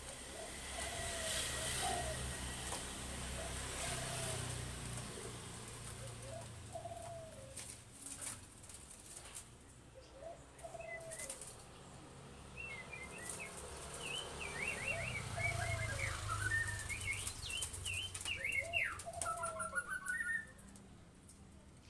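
Morning birdsong. One bird repeats a short, low call every second or two, and a smaller bird joins in with quick, high chirps and twitters through the second half, over a low background rumble.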